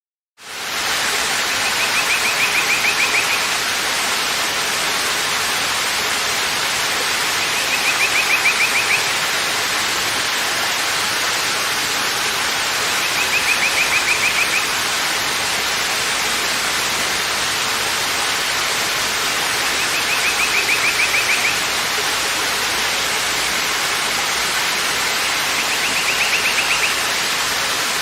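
Steady, even rush of a waterfall, starting abruptly just after the beginning. A short, rapid, high-pitched trill lasting about a second and a half recurs about every six seconds, five times in all.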